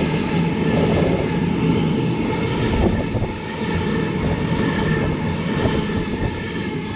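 Sydney Trains B-set (Waratah Series 2) electric multiple unit passing through the station: a loud, steady rumble of traction motors and wheels on rail.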